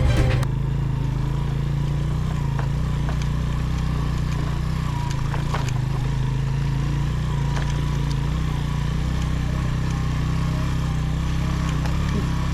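Suzuki GS 150's single-cylinder engine running at a steady speed, with a few faint clicks. Background music cuts off about half a second in.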